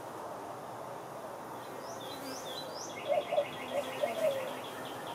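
Wild birds calling over steady outdoor background noise: a few quick rising chirps, then a rapid high trill from about three seconds in. At the same time come several short, lower, wavering calls, the loudest sounds.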